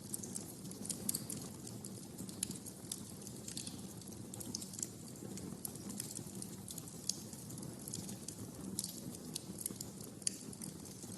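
Wood fire crackling in a fireplace: irregular sharp pops and snaps, several louder ones standing out, over a steady low rumble of the flames.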